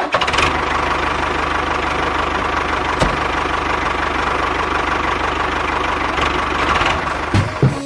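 A small engine running steadily with a fast, even chugging and a steady whine over it. There is one sharp click about three seconds in.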